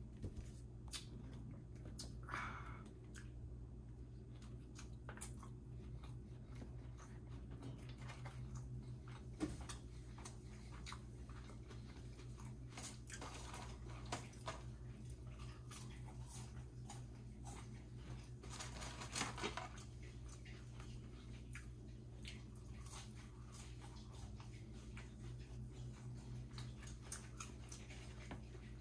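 A person chewing and biting fast food close to the microphone: scattered small crunches and clicks of eating, over a steady low hum.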